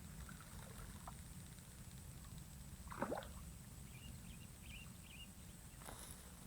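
Quiet outdoor waterside ambience with a steady low rumble, a brief splash-like water sound about three seconds in, and faint high chirps a second or two later.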